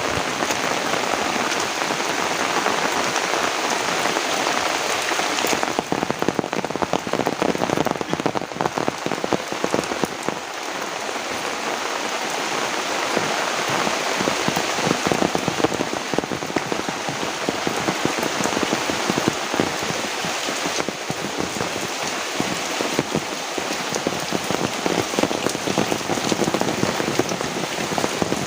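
Heavy rain falling steadily: a dense patter of drops hitting surfaces.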